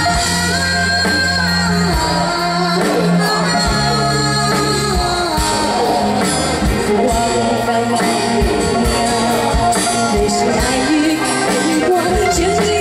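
Live band playing a Mandarin pop ballad with a woman singing over it, loud and steady throughout.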